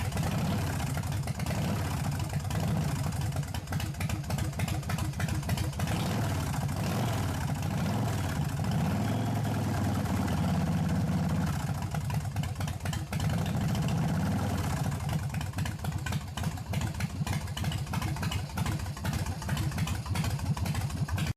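Motorcycle engine running with a fast, uneven pulse, idling, with the throttle blipped a few times around the middle so the pitch rises and falls.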